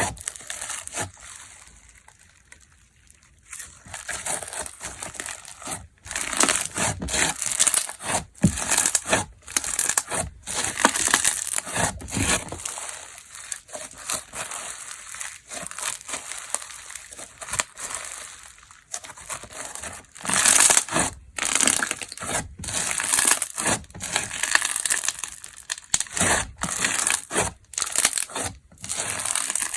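Hands squeezing and pressing a textured slime modelled on fu-gashi (wheat-gluten puff snack), making crisp crackling and crunching in irregular bursts, with a quieter lull about two seconds in.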